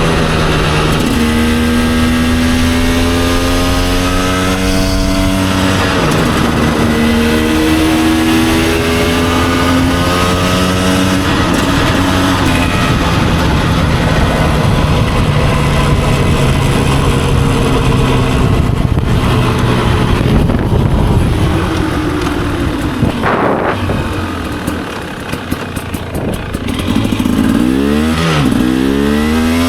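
2024 GasGas EC300 single-cylinder two-stroke dirt bike engine under way, pitch climbing and then dropping back at each gear change. Near the end it eases off briefly, then revs up and down quickly.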